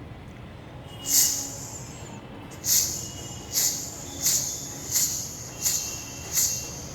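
Mouth imitation of ghunghroo ankle bells jingling to a walking pace: a first hissing jingle about a second in, then a steady run of short jingles about 0.7 s apart, like a woman's footsteps while wearing ankle bells.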